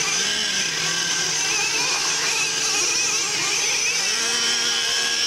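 Several small nitro engines in 1/8-scale RC monster trucks buzzing at once as they race. Their high whine rises and falls with the throttle.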